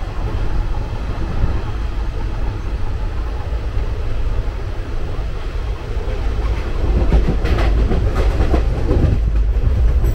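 Indian Railways passenger coach running along the track, heard from inside through open barred windows: a steady low rumble with wheels clattering over the rail joints. The rumble grows louder about seven seconds in, with a few sharp clanks.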